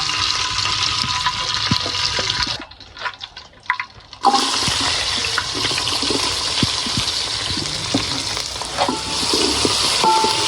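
Steady hissing of food sizzling in a pan, with light clicks of a utensil stirring. The hiss drops out for about a second and a half near three seconds in, then comes back.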